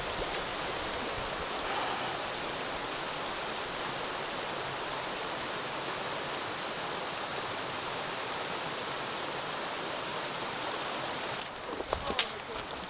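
Steady rushing of a mountain stream, with a few knocks near the end.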